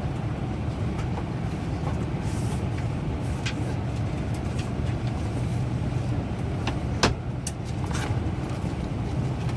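Steady low rumble of an Airbus A320's cabin while parked at the gate during boarding, with a few short clicks and knocks; the sharpest comes about seven seconds in.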